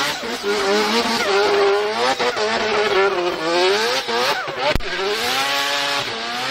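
Drift car's engine revving up and down hard while the tyres squeal and hiss through a slide. There is one sharp crack just under five seconds in.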